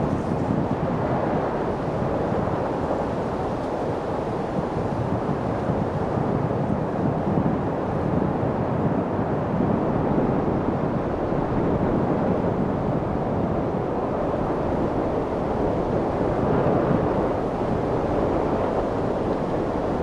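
Steady light wind, a low rushing noise that swells slightly now and then without gusting.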